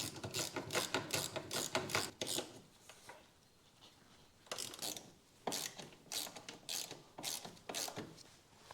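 Ratchet wrench clicking as a bolt is tightened during installation of a rebuilt suspension part: a fast run of clicks for about two seconds, a short pause, then separate short strokes from about halfway through.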